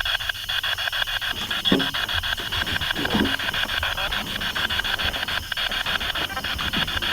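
Spirit box sweeping through radio stations: hissing static chopped into rapid clicks about ten a second, with a few brief low snatches of sound breaking through.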